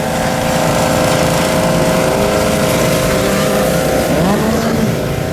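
Motocross bike engines running at steady high revs, with one engine's pitch rising and falling about four seconds in.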